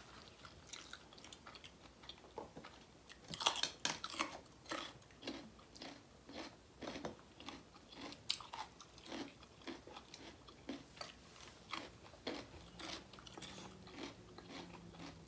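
Soft close-up eating sounds of people chewing mouthfuls of rice and curry: wet chewing, lip smacks and small crunches, with a quicker run of them a few seconds in.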